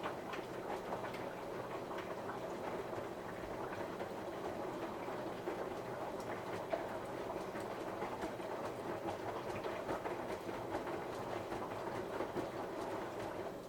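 Samsung washing machine on a 60 °C cotton wash, its drum turning and tumbling wet laundry through the wash water: a steady swishing churn scattered with small clicks and patters, which stops near the end as the drum pauses.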